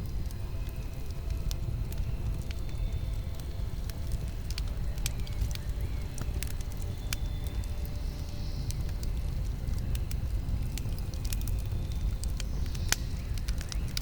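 Campfire burning, the wood crackling with frequent sharp, irregular pops over a steady low rumble.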